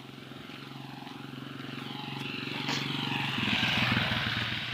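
A motor vehicle's engine running steadily as it approaches and passes close by, growing louder to a peak about four seconds in, then fading.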